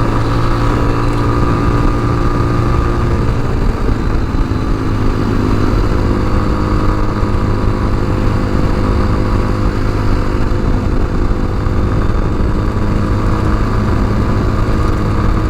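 Tao Tao TBR7 dual-sport motorcycle's engine running steadily at road speed, with a shift in engine pitch about four to five seconds in.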